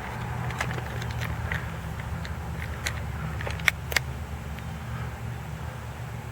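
Steady low rumble with scattered light clicks and taps, two sharper ticks close together a little past the middle.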